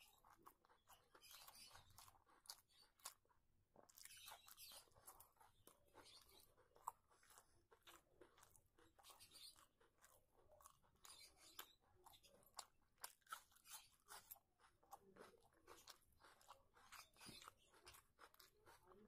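Quiet, close-up chewing of rice and crisp fried food eaten by hand, with irregular crunches and small wet mouth clicks several times a second.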